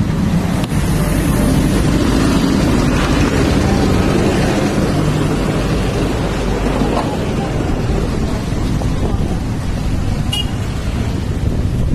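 Vehicle driving along a rough, badly damaged road: a steady low rumble of engine and road noise.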